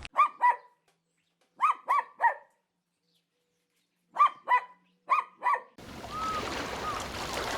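A small dog barking in high-pitched yips, about nine in groups of two or three. Near the end the sound cuts to a steady noisy background with a few faint calls.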